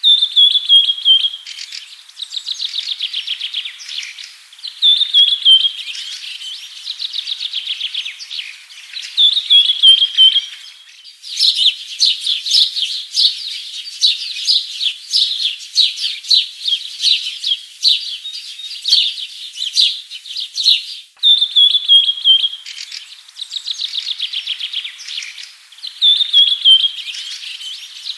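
A bird singing in repeated phrases: a short whistle falling in pitch, then a fast trill, every four or five seconds. From about 11 s to about 21 s it gives a denser run of quick chirps, and the sound breaks off abruptly at both ends of that run.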